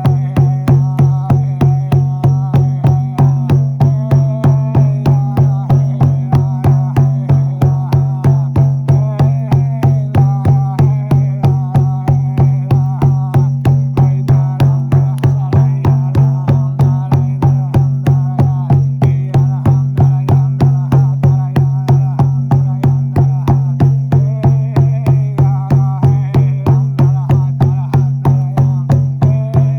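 Frame drum (buben) beaten in a steady, even rhythm of about three strokes a second, over a low unbroken drone and a wavering higher melody.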